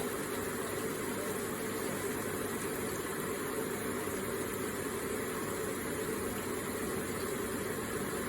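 Electric water feature with water trickling and splashing in a steady, even stream.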